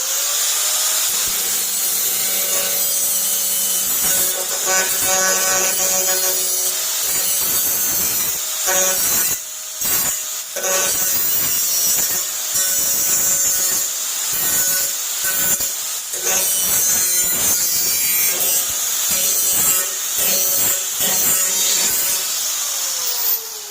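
Electric cut-off wheel spinning up and grinding metal, cleaning up rough edges, with the sound briefly dropping off several times as the wheel is lifted. Near the end the motor's whine falls as the wheel winds down.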